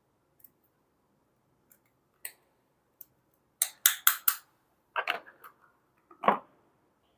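Small plastic toy pieces handled and set down: a run of sharp clicks and taps, loudest in a quick group of four a little past halfway, ending in a duller knock near the end.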